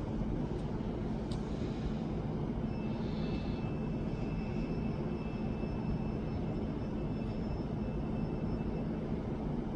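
Stadler Citylink Class 399 tram-train running: a steady low rumble with a constant hum, and a faint high whine that comes in about three seconds in.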